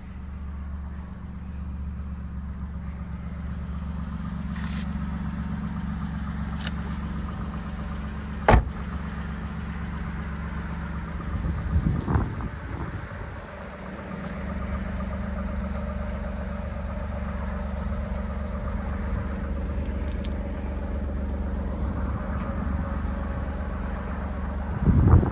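Alfa Romeo Stelvio Quadrifoglio's twin-turbo V6 idling steadily, with a sharp knock about eight seconds in and a louder clatter near the end.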